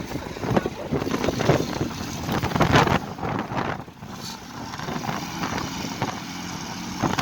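Stuck vans and buses with their engines running in deep snow, with gusts of wind buffeting the microphone.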